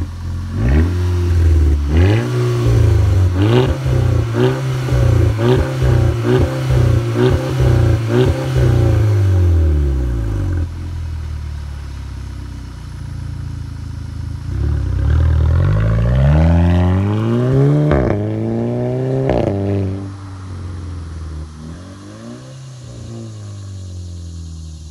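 Volkswagen Golf GTI's engine, which the title claims is a twin-turbo 2JZ swap, blipped through a quick run of sharp revs, about two a second, while standing. It drops back to idle, then revs up hard and pulls away through two gear changes, each marked by a sharp crack, and fades into the distance.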